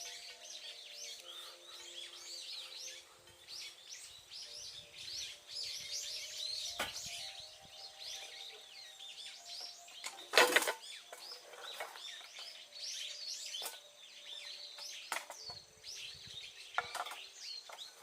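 Many small birds chirping in quick, high calls, one after another. A single sharp knock about ten seconds in is the loudest sound.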